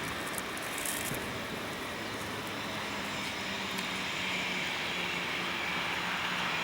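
Jet engine noise from an Airbus A319-112 with CFM56-5B engines: a steady rushing sound with a faint hum underneath, growing slightly louder over the last couple of seconds.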